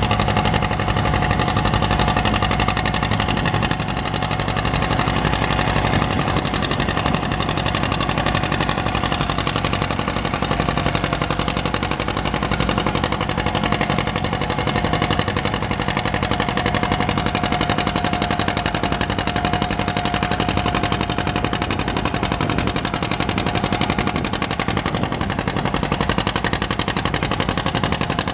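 Antique farm tractor engine running steadily, its exhaust a rapid, even train of pulses.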